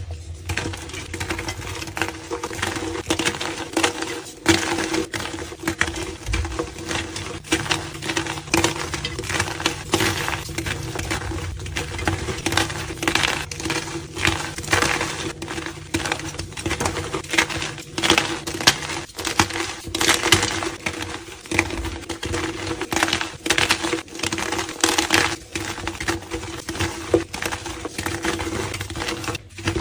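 Blocks of gym chalk being crushed by hand: a dense, continuous run of dry crunches and crumbles.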